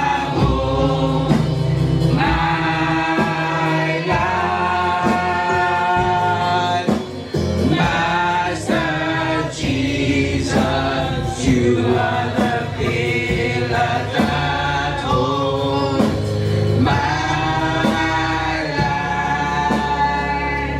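Gospel choir singing a praise song in a church service, with instrumental backing and a steady percussive beat.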